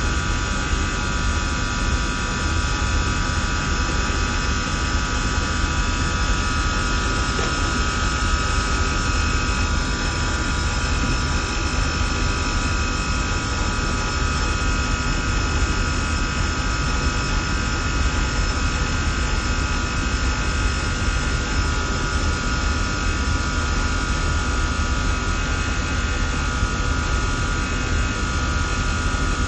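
HVAC plant of a chiller–fan coil system running steadily: a constant low rumble with an even rush of air and a few steady whining tones that never change.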